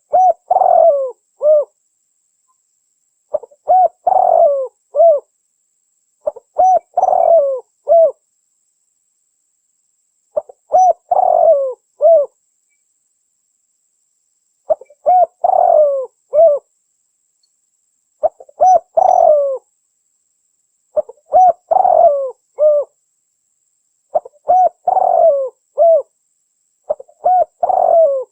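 Spotted dove (tekukur) cooing: a short phrase of a few coo notes, repeated about nine times at roughly three-second intervals with silence between. It is used as a lure call to draw in wild doves.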